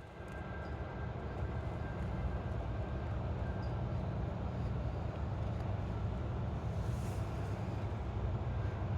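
Coal train rolling past: a steady low rumble of the cars on the rails that slowly grows a little louder.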